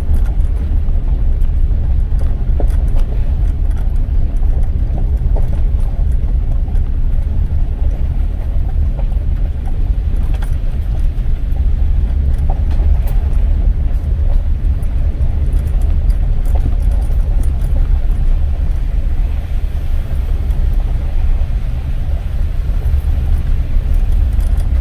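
Steady low rumble of a car heard from inside the cabin while driving: engine and tyre road noise, with a few light rattles.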